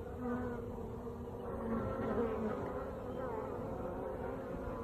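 Honeybees buzzing in flight around the hive entrance, several wing hums at once, their pitches wavering slightly as bees come and go.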